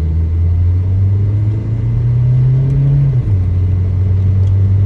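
1995 Toyota Corolla / Geo Prizm four-cylinder engine at full throttle during a 0-60 mph run, its note climbing steadily, then dropping suddenly at a gear change about three seconds in before pulling on in the next gear.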